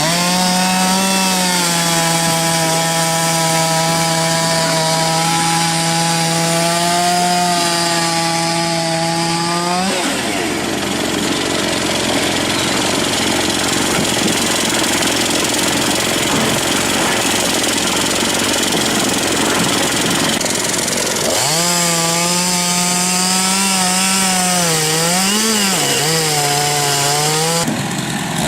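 A chainsaw-type small engine running flat out at a high, steady pitch. For about ten seconds in the middle the note is buried under loud rasping cutting noise. Near the end the engine pitch dips and recovers a few times as it bogs under load in the wood.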